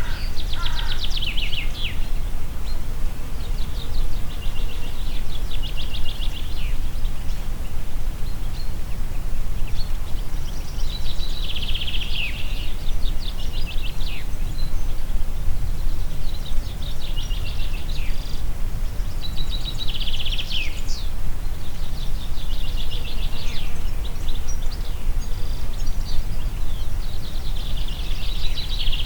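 Steady low rumble of wind in a forest, with a songbird repeating a short, rapid, high trilled song every few seconds.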